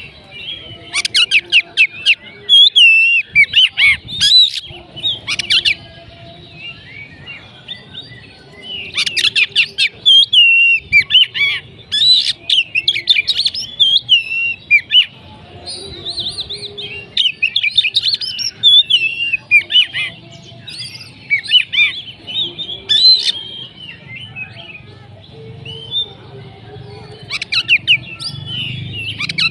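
Oriental magpie-robin singing loudly: bouts of varied, fast-sweeping whistled notes and trills, broken by short pauses of a second or two.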